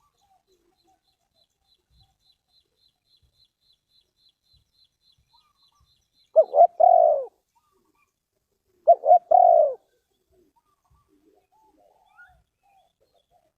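Spotted dove cooing: two three-note coo phrases, each about a second long, the second coming about two and a half seconds after the first.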